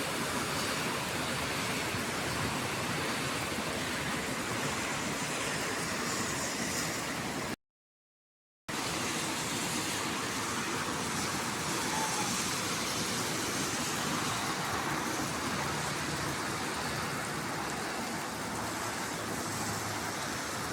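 Steady rushing of rainwater runoff, cut off completely for about a second around seven and a half seconds in.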